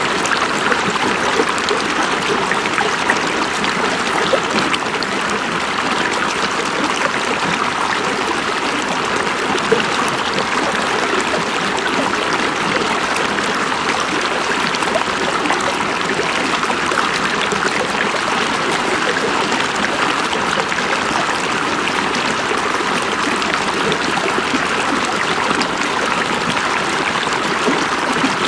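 River water flowing over rocks: a steady, loud rush of moving water with fine splashing and gurgling texture, unchanging throughout.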